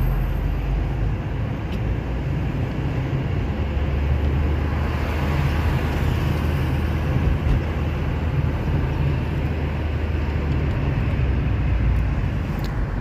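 A car driving along a road: a steady low engine drone with tyre and road noise.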